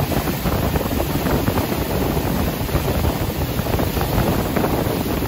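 Heavy wind buffeting the microphone: a loud, steady, rushing roar with no clear engine note.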